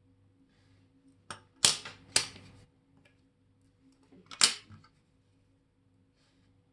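Sharp clicks and knocks of watch-repair work at the bench, from metal tools and watch parts. A light click comes first, then two loud sharp knocks half a second apart, and another about four and a half seconds in, over a faint steady hum.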